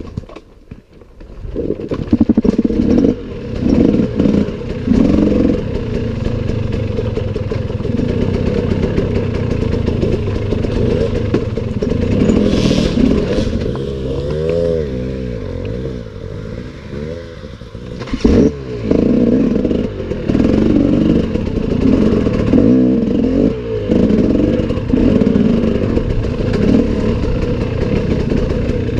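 Loud, rough low rumble of wind and handling noise on a camera microphone carried while running, with a few clicks and scrapes.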